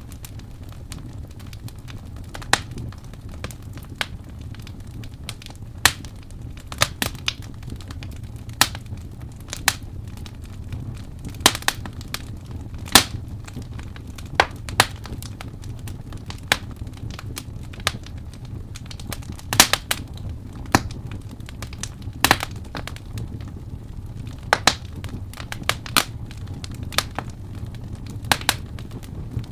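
Wood fire crackling: irregular sharp pops and snaps, one or two a second, over a steady low rumble of the burning.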